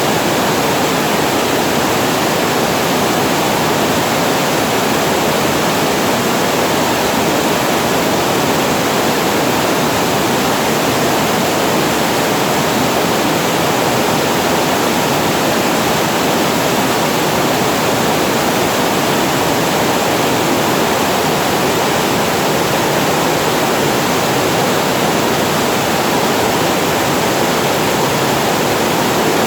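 Water pouring over a reservoir weir as a small waterfall, a steady, unbroken rush of falling water.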